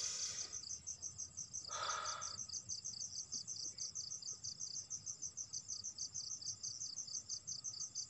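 Night insects, cricket-like, chirping in a steady fast pulse of high chirps, about six a second. A single short scuffing rustle comes about two seconds in.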